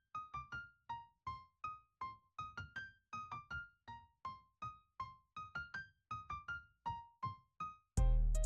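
Background music: a light piano or electric-piano melody of short, quickly fading single notes, about three or four a second, with a louder passage coming in near the end.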